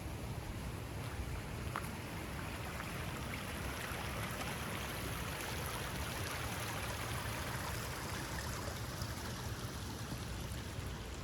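Sea surf washing onto a beach: a steady rush of water that swells for a few seconds in the middle and then fades.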